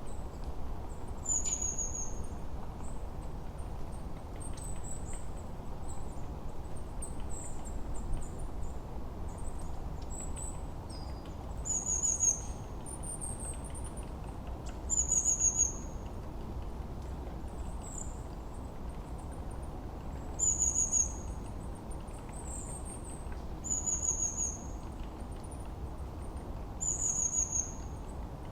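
Forest birdsong: several small birds chirping high and thin, one repeating a short falling call every few seconds, over a steady low rumble.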